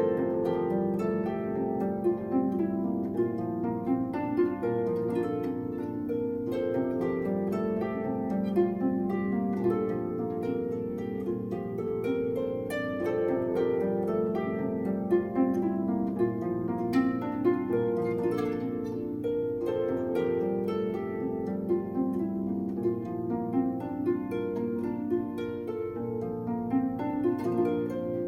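Solo harp playing continuously: a stream of plucked notes, several ringing on together as each one decays.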